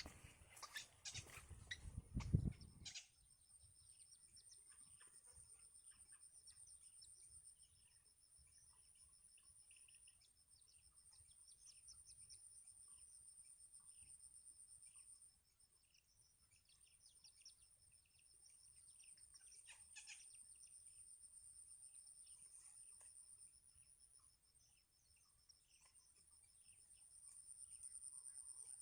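Faint, scattered chirps of small birds over a steady high-pitched whine. In the first three seconds there are louder knocks and rustling.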